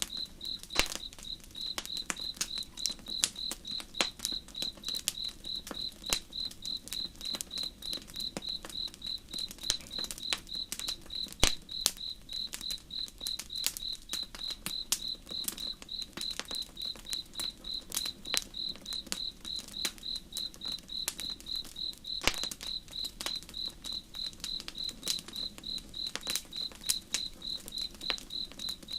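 Crickets chirping in a steady, even train while a campfire crackles with irregular sharp pops, one louder pop about eleven seconds in and another about twenty-two seconds in.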